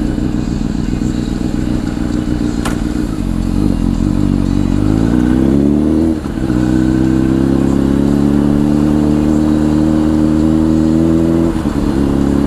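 Honda CBR1000 inline-four through a Two Brothers aftermarket exhaust, accelerating: its note climbs for a few seconds, dips for a quick gear change about six seconds in, then holds a steady cruising pitch, with another brief shift near the end.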